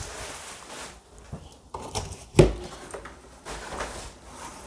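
A heavy cardboard box being handled: rustling and scraping, with one loud thud about two and a half seconds in.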